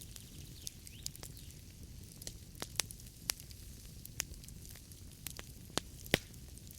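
Wood fire in a fireplace burning with a low steady rumble and hiss, and irregular sharp crackles and snaps of the burning logs, the loudest about two-thirds of a second apart near three seconds in and one more near the end.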